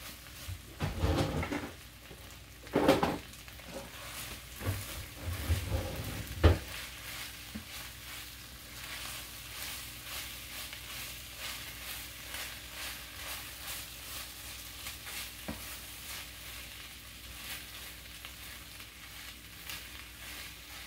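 Fried rice sizzling in an oiled skillet while a spatula stirs and scrapes through it. A few louder knocks and scrapes against the pan come in the first several seconds, the sharpest about six and a half seconds in, then a steady sizzle with light scraping.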